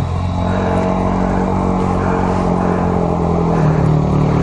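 250 cc single-cylinder trail bike engine running steadily, a little louder in the last second.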